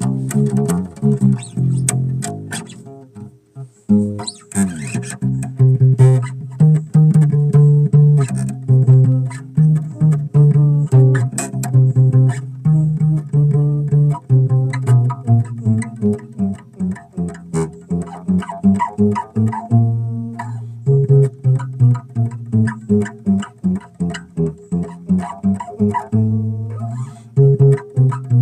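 Bass guitar played solo, a steady run of plucked notes in a jam, with a short lull about three seconds in before the playing picks up again.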